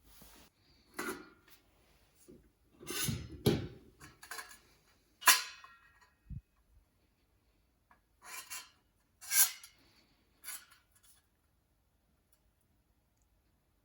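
Handling noise: scattered clattering, rubbing and knocks of hard objects being moved and set down, with two sharp clacks about five and nine seconds in, then it falls quiet.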